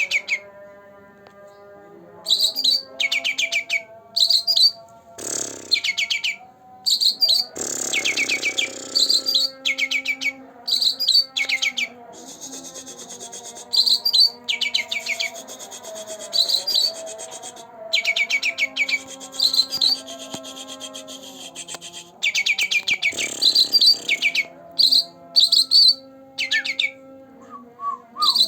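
Songbird (cucak ranting) singing: short bursts of rapid, high, repeated chirps, one every second or two, with a lower steady droning beneath.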